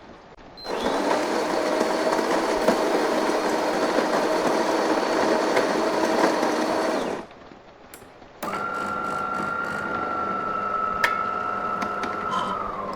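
Electric coffee grinder running steadily for about six and a half seconds, then, after a short pause, an espresso machine running with a steady high whine for about four and a half seconds.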